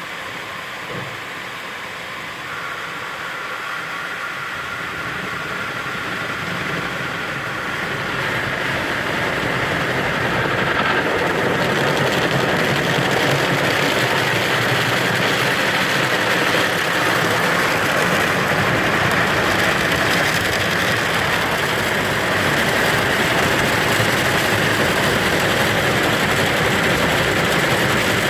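Automatic car wash working over the car, heard from inside the cabin: a steady rush of water spray and machinery with a low rumble, growing louder over the first ten seconds or so and then holding steady.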